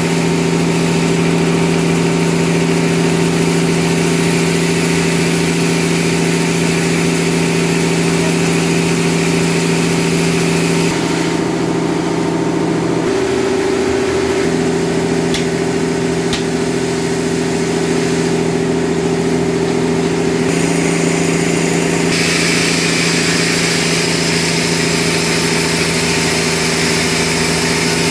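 Sawmill engine running steadily, a constant low drone with a hiss above it. The hiss thins out twice, about eleven seconds in and again near eighteen seconds, and the drone's lower tone wavers briefly around twelve to fourteen seconds.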